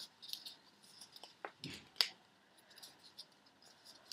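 Square of origami paper being handled and folded by hand: faint scattered crinkles and small clicks as the folds are pushed in, with one sharper paper click about two seconds in.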